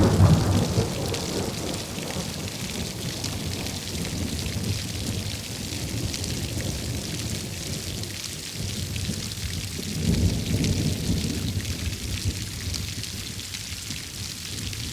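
Heavy rain in a steady hiss, with thunder. A low rumble dies away in the first second, and another rolls in about ten seconds in and fades.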